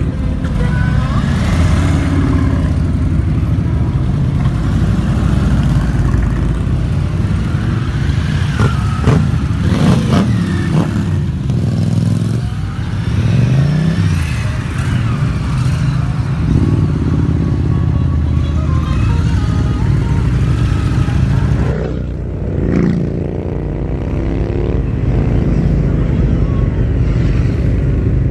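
Motorcycle engines running on the road with a steady low rumble, the pitch rising and falling a few times in the middle as the bikes rev and pass. Music may be mixed in.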